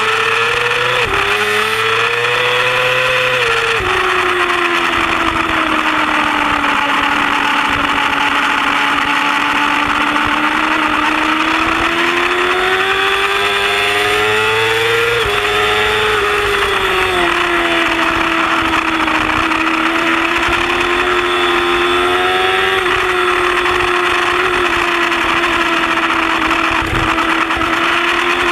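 Yamaha R6 inline-four sport-bike engine running hard at racing speed, heard from on board, its pitch slowly rising and falling with the track. Sudden drops in pitch about one and four seconds in and again around fifteen seconds in mark gear changes, over a steady rush of wind.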